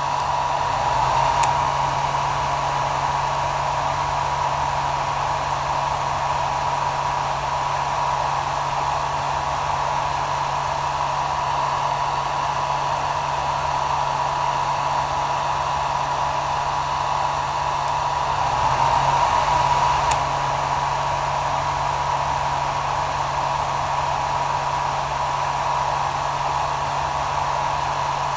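Hair dryer running steadily: a continuous rush of blown air over a low, even motor hum, swelling slightly twice.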